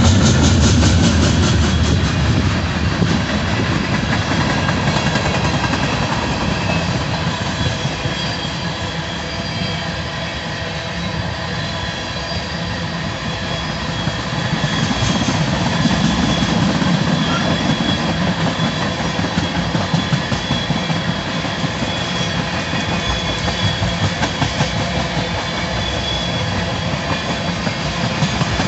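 Freight cars of a BNSF manifest train rolling past: a steady wheel-on-rail rumble and clatter, with a faint high-pitched wheel squeal running through it.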